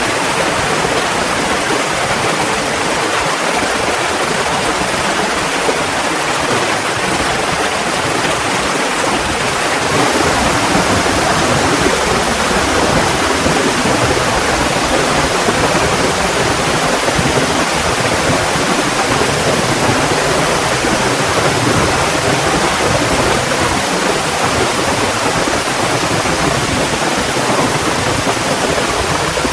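Heavy rain pouring down in a steady hiss, growing a little louder about a third of the way in.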